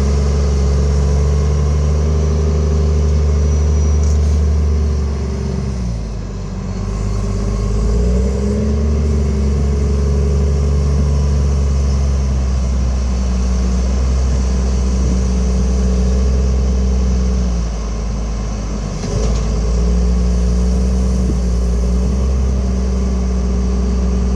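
Case 921C wheel loader's diesel engine running steadily at working speed. It drops briefly in speed and load twice, about six and eighteen seconds in, and picks up again each time.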